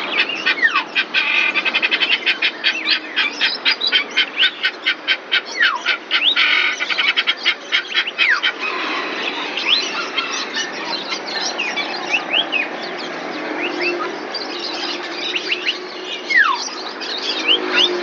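Caged birds calling. A fast run of sharp repeated notes, about six a second, lasts through the first seven seconds or so, with whistled chirps sliding downward throughout.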